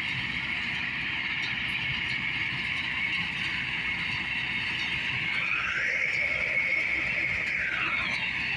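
Massey Ferguson 1085 tractor and MF124 square baler running steadily, with a high-pitched whine that briefly drops in pitch and recovers twice.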